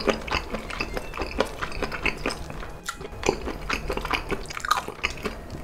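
Close-miked mouth sounds of chewing grilled makchang: a dense run of short, irregular wet clicks and smacks.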